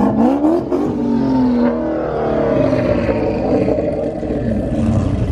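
Ford Mustang GT's V8 revving up as the car accelerates away, its pitch climbing steeply at first and then easing back, with a few sharp cracks in the first second.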